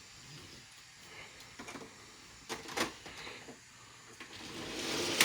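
Faint clicks and taps of toy die-cast cars being handled on a plastic track, then a rattling roll that grows louder over the last second or so as a Hot Wheels car and a toy monster truck run down the orange plastic track.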